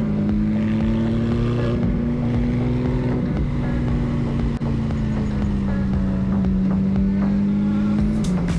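Motorcycle engine running steadily at cruising speed, heard from a helmet-mounted camera with wind on the microphone. Its pitch eases slowly down, and there is one brief click about halfway through.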